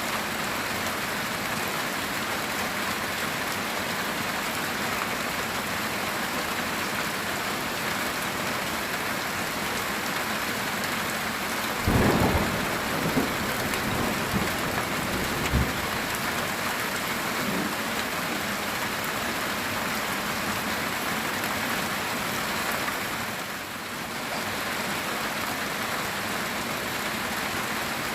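Steady heavy rain drumming on a metal tin roof. About twelve seconds in, a thunderclap breaks and rumbles for a few seconds with several peaks before the rain carries on alone.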